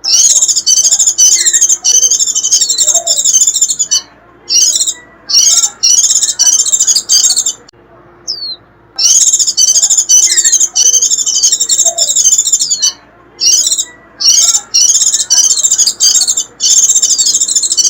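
White-eye (vành khuyên) giving its shrill, rapid twittering 'rít' song in runs of one to several seconds, broken by short pauses, the longest about eight seconds in.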